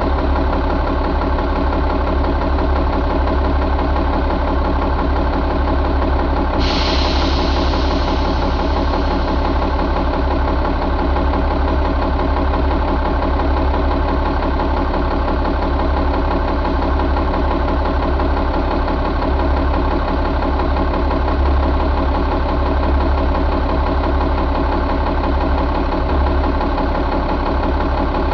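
Caterpillar C12 inline-six diesel engine idling steadily. About six seconds in, a hiss starts and fades away over a few seconds.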